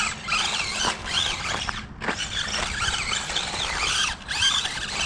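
Pickup truck spinning its wheels and fishtailing on a wet surface: a high squeal that rises and falls over and over as the throttle is worked.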